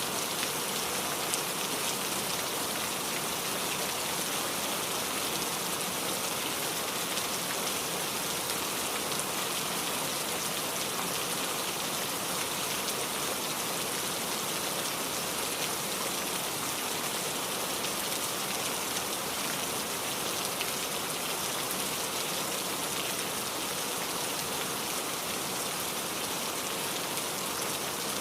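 Steady rain falling on a surface, an even hiss with faint patter of drops.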